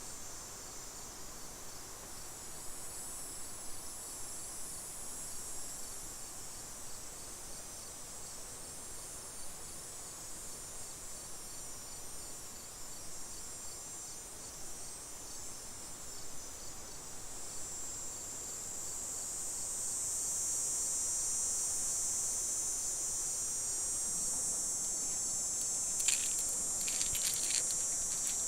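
Insects trilling steadily in a high, continuous band. They grow louder a little over halfway through. A few short clicks sound near the end.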